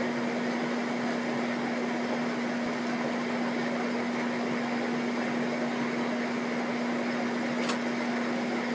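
Steady mechanical hum: a constant low droning tone over an even rushing noise, unchanging throughout.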